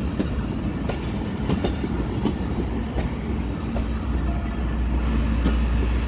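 Pakistan Railways passenger coaches rolling past on broad-gauge track, arriving at the station. There is a steady low rumble and irregular clacks of the wheels over the rail joints, and the rumble deepens and grows louder near the end.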